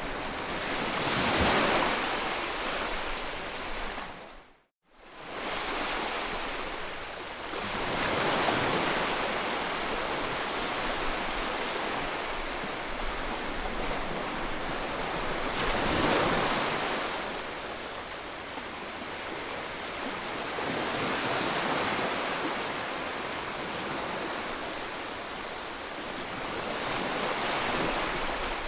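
Sea waves breaking and washing onto the shore, surges coming every several seconds over a steady rush of surf. About five seconds in the sound drops out for a moment, then the surf resumes.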